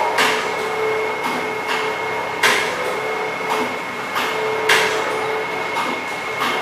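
Automatic powder sachet packing machine with a volumetric doser running its packing cycle. A loud clack comes about every two seconds, with lighter clicks in between, over a steady mechanical hum with a held whine.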